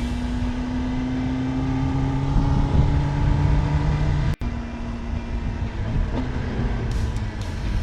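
Kawasaki ZX10R inline-four engine running steadily at road speed, its pitch rising slightly over the first few seconds. The sound cuts out for an instant a little past halfway.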